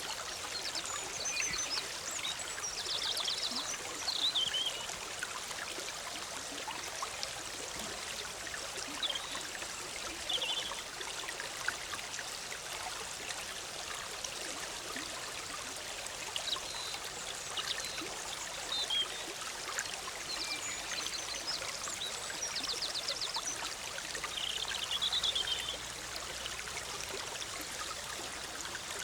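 Big Sur River, a forest stream, flowing with a steady bubbling rush, with songbirds calling now and then over it: a quick trill about three seconds in and again about twenty seconds in, and scattered short chirps.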